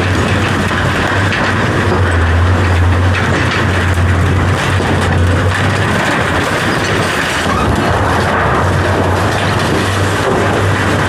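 Loud, steady mechanical rumble and hiss with a strong low hum, changing little throughout.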